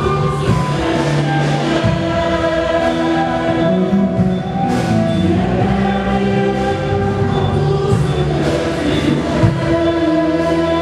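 Church choir singing a hymn in several parts, with musical accompaniment.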